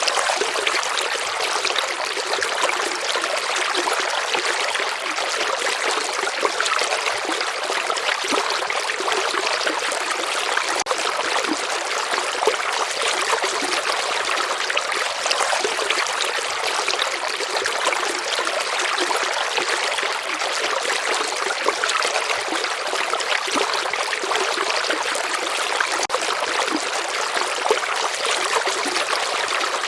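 Slow-flowing river water trickling steadily, a continuous hiss of small splashes with no deep rumble.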